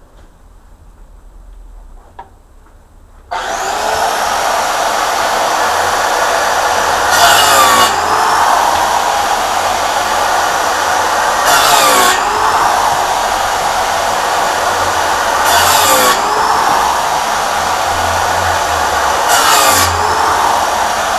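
Electric power saw starting about three seconds in and cutting wood, running steadily and getting louder about every four seconds with a short dip in pitch as the blade takes the load.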